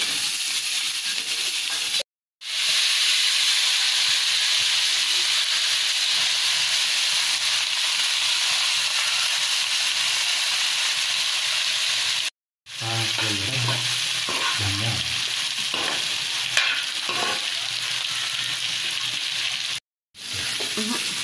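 Turkey meat and sliced onion sizzling in a hot wok as a spatula stirs them, then chopped leafy greens frying with a steady loud hiss. The frying sound drops out to silence briefly three times.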